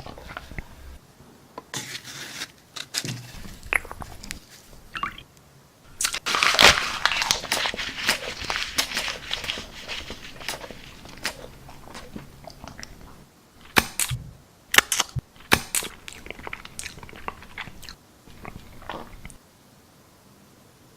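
Crunchy chips being bitten and chewed: irregular crisp crunches, loudest and densest about six to eight seconds in, with a few sharp crunches around fourteen to fifteen seconds.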